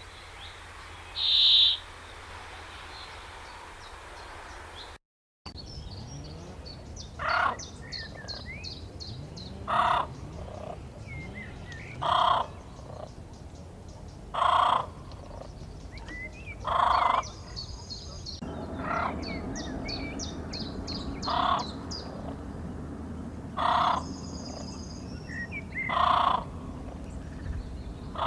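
Birds calling: one loud call near the start, then, after a short break, a bird repeating a loud short call about every two and a half seconds over many faint, high chirps from other birds.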